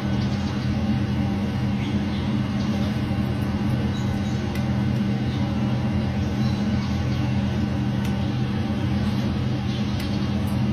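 A steady low mechanical hum that holds an even pitch throughout, with a few faint clicks over it.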